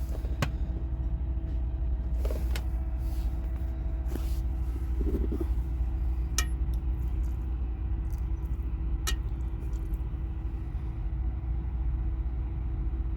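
Semi-truck driving, heard from inside the cab: a steady low engine and road rumble with a faint steady hum, and a few sharp clicks or rattles.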